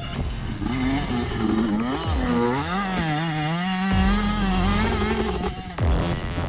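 85 cc two-stroke motocross bike engine revving, its pitch rising and falling with the throttle and dropping sharply twice.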